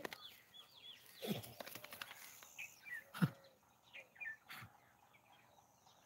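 Small birds chirping and twittering, with a few dull thumps, the loudest about one and three seconds in.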